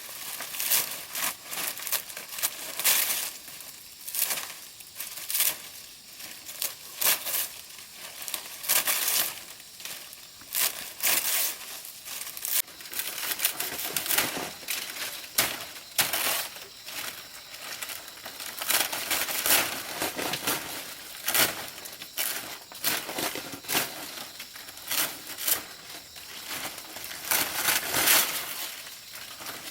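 Dry plant leaves rustling and crackling as they are handled, with irregular crunches several times a second.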